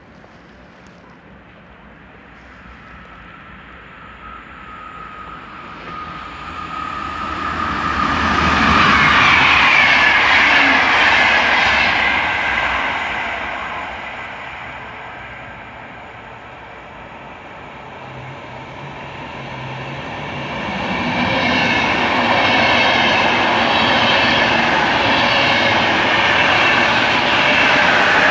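Train passing on the rails, its wheel and rail noise building to a peak about nine to twelve seconds in and easing off. A second swell of train noise comes from about twenty-one seconds on.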